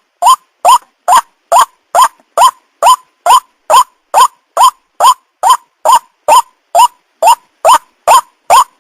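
White-breasted waterhen (ruak-ruak) calling: a short, upward-sweeping note repeated evenly a little over twice a second.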